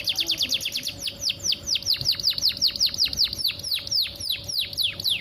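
Female domestic canary calling in a long run of quick, high, downward-slurred chirps, closely packed at first and then spacing out to about four or five a second. It is the call of a female in breeding condition, used to draw males into song.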